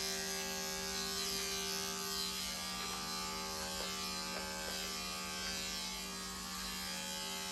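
Electric dog grooming clippers with a half-inch guard comb, running with a steady buzz while trimming a puppy's coat.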